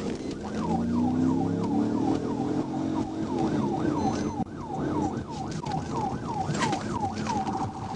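Police cruiser siren on yelp, its pitch sweeping down quickly and repeating about two and a half times a second over the cruiser's engine during a high-speed pursuit. Near the end the siren switches to a steady, rapidly pulsing tone.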